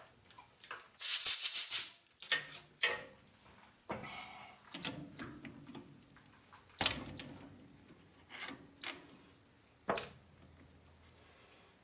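Workshop handling noises: a loud, short burst of hiss about a second in, then scattered clicks, knocks and rattles of metal tools and parts being handled.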